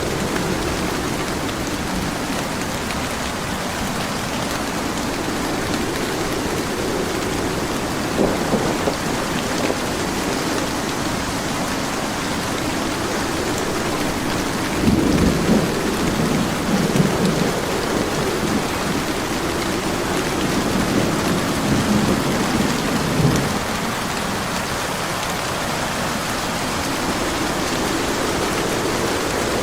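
Steady heavy rain falling, with rolling thunder rumbling low twice: a short roll about eight seconds in and a longer one from about halfway to three quarters through.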